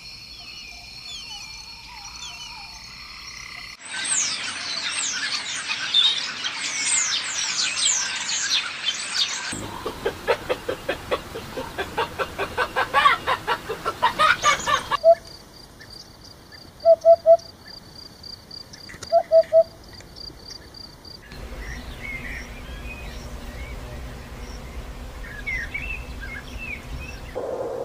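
Frog and bird calls in a string of separate nature recordings cut together, changing abruptly every few seconds: high chirps and whistles, a dense chirping chorus, a fast pulsing call, then short croaks in groups of two or three over a steady high whine.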